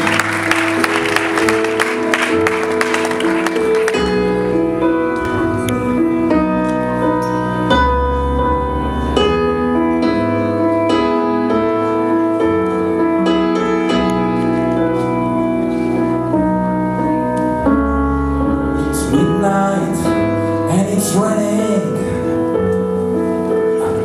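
A live rock band plays the instrumental intro to a song: long held keyboard chords over low bass notes, with a bending melody line coming in near the end. Applause from the audience dies away in the first few seconds.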